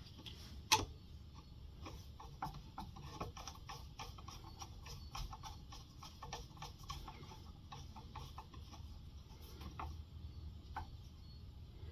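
Faint, irregular small metal clicks and ticks of a screwdriver turning a screw back into a lawnmower carburetor, with one sharper click about a second in.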